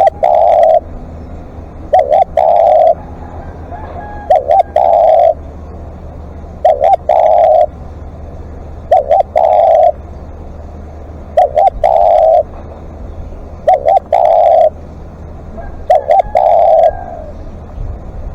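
Spotted dove cooing: a phrase of two or three short coos ending in a longer coo, repeated about every two and a half seconds, eight times. A steady low hum runs underneath.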